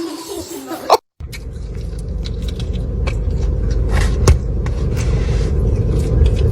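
A steady low rumble that slowly grows louder, with a faint steady hum and scattered short clicks, after a brief break in the sound about a second in.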